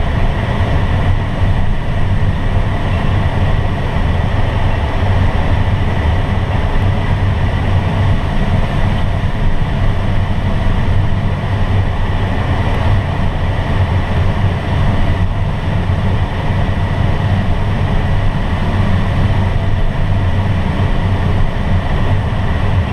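Steady rush of airflow and rumble inside a glider's cockpit in flight, with a faint steady high tone alongside.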